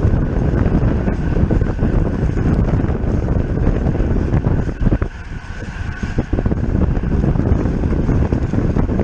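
Heavy wind rushing over the microphone of a camera on a bicycle ridden at race speed, easing briefly about five seconds in.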